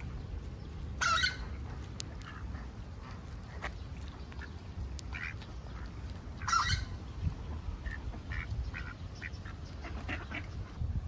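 Birds calling in a bird enclosure, with two loud calls about a second in and midway through, and shorter, fainter calls between them, over a steady low rumble.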